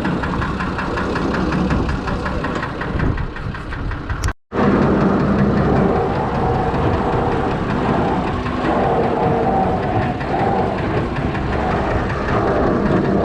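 Fordson Major tractor's six-cylinder Perkins diesel engine running steadily. The sound drops out for a moment about four seconds in, then the engine carries on.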